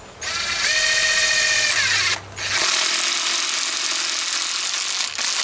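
Power drill running in two long bursts with a short pause between, working into the wood of the garden bed's frame.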